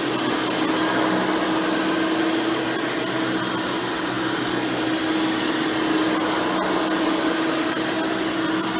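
Hoover Elite Supreme upright vacuum running steadily, with a constant hum over its airflow noise. Its motor has an upgraded 20-blade fan, and it drives a short, stiff single-row bristle brush roll.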